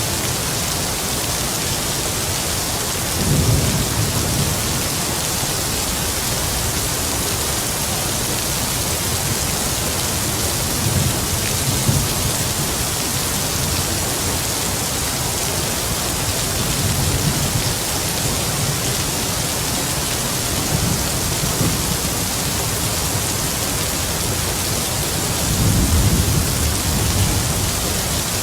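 Heavy rain falling in a steady hiss, with low rumbles of distant thunder rolling in several times. The rumbles are strongest about three seconds in and near the end.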